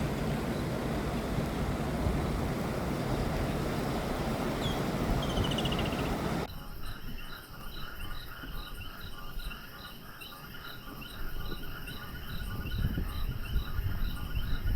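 A steady rushing noise with a few brief chirps, cut off abruptly about six seconds in by a chorus of frogs and insects, in which one high call pulses evenly about two to three times a second over a lower pulsing trill.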